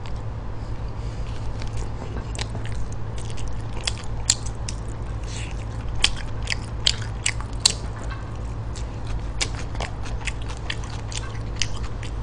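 Close-miked chewing of stir-fried pig intestines and rice, with many short sharp clicks from the mouth and chopsticks scattered through it, over a steady low hum.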